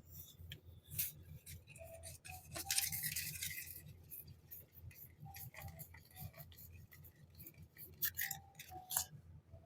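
Packaging and small stationery items being handled by hand: scattered clicks and taps, a crinkly rustle about three seconds in, and two sharper taps near the end.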